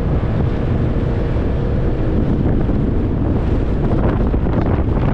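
Side-by-side UTV driving along, its engine running under heavy wind buffeting on the microphone.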